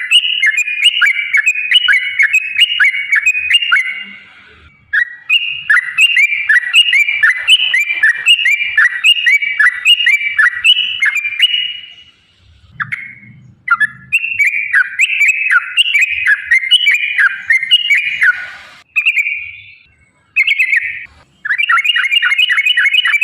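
Yellow-vented bulbul (trucukan) singing loud, long, fast-chattering 'ropel' runs of quick repeated notes, broken by a few brief pauses. This is the excited song used as a lure to make other bulbuls answer.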